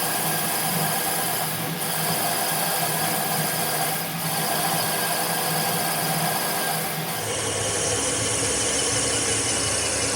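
Steady running noise of machinery with a constant low hum, changing character abruptly about seven seconds in.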